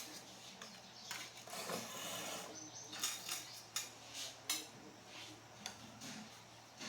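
Light clicks and clinks of tools and small metal parts being handled during repair work on a welding machine, with a stretch of scraping in the first couple of seconds over a faint steady hum.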